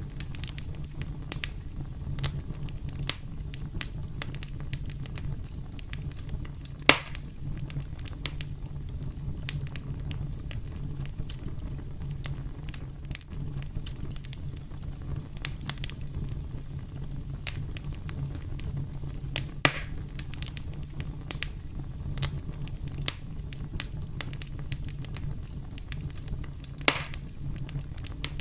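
Campfire crackling: a steady low rumble of burning wood with scattered sharp crackles and a few louder pops, about 7, 19 and 27 seconds in.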